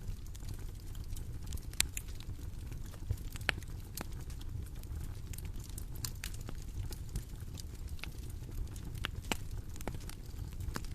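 Bonfire crackling: irregular sharp pops and snaps over a steady low rumble of the flames.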